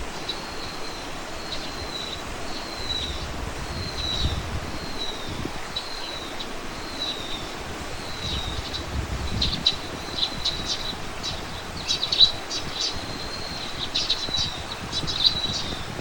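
Birds calling outdoors: a short, falling note repeated about once a second, giving way about halfway through to quicker clusters of sharp chirps. A low rumble rises underneath for a few seconds in the middle.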